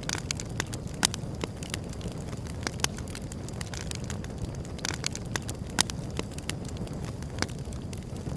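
Wood fire burning with irregular sharp crackles and pops over a steady low rumble of the flames; the strongest pops come about a second in and again just before 6 seconds.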